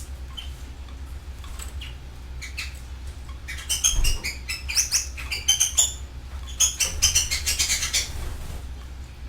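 Canaries chirping and trilling in an aviary, a few scattered chirps at first, then a busy stretch of rapid calls and trills through the middle, thinning out near the end, over a steady low hum.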